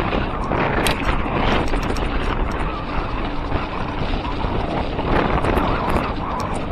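Wind buffeting the camera microphone while riding a mountain bike down a trail, with steady tyre noise and many sharp clicks and rattles from the bike over rough ground.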